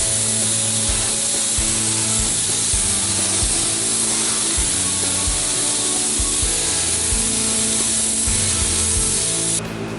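Compressed-air paint spray gun spraying a steady hiss while coating car bodywork, cutting off suddenly near the end. Background music plays underneath.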